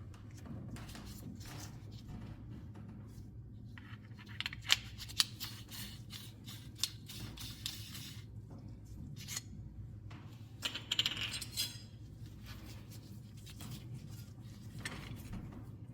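Light metallic clinks and clatter of small metal parts or tools being handled: a few sharp clinks around five seconds in and a denser run of ringing clinks around eleven seconds, over a low steady hum.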